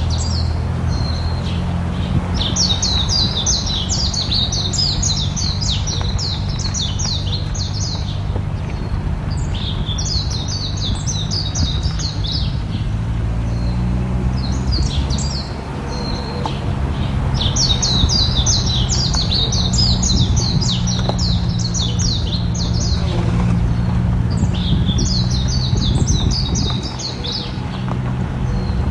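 Songbirds singing in repeated high, rapid trilled phrases of a few seconds each, over a steady low hum.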